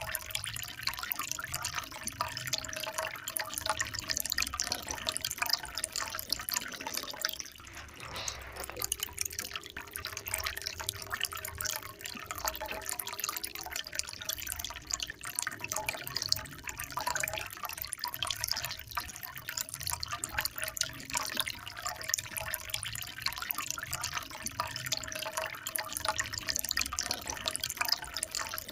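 Water trickling and splashing without a break, a steady patter of many small drops.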